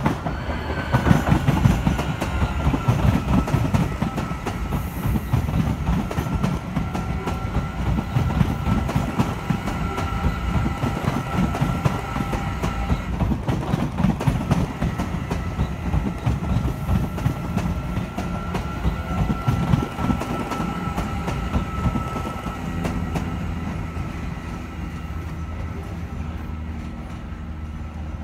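Train running along the railway line: a heavy rumble with irregular clatter of wheels over the rails and a steady high whine. The sound evens out and grows quieter near the end.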